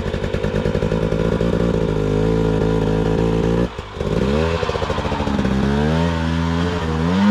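Dirt bike engine running at low revs with a steady rapid beat. About halfway through it briefly drops away, then the revs climb and rise and fall in short bursts of throttle.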